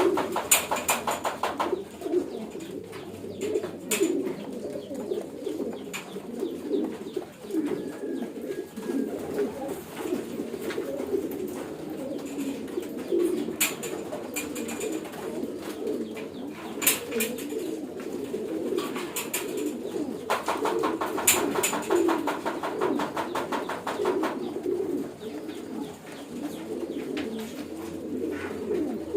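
Many homing pigeons cooing together in a loft, a dense continuous coo chorus. Several stretches of fast, even clicking and a few single sharp ticks sound over it.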